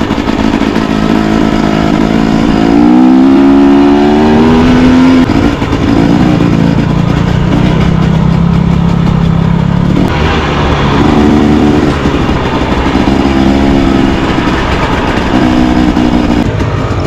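A motor vehicle's engine running under way: it revs up about three seconds in, pulls steadily, then revs up briefly a few more times near the end, over a steady rush of wind and road noise.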